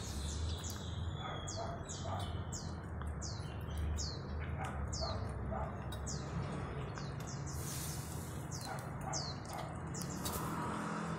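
A small bird chirping in a long run of quick, high, falling notes, about two a second, with a short pause midway, over a steady low background rumble.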